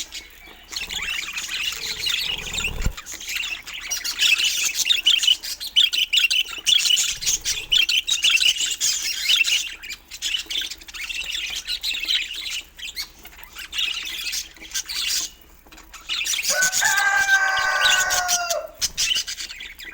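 A flock of budgerigars chattering and warbling with rapid high chirps, pausing briefly about three-quarters of the way through. Near the end comes a lower, longer call of about two seconds with a clear pitch.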